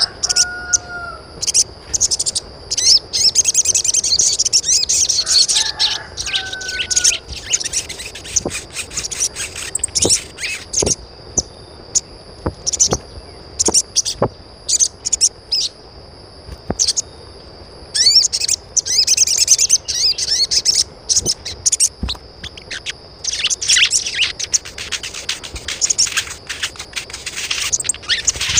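Birds chirping in quick bursts of high notes over a steady high-pitched tone, with two short lower calls, one at the start and one about six seconds in.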